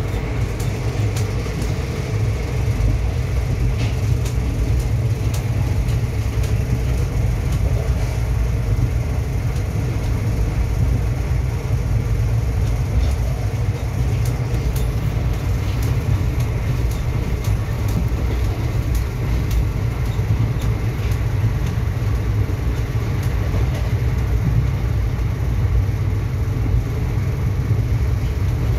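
Express passenger train running at speed, heard from inside the coach: a steady, loud low rumble of wheels on rails with scattered short clicks.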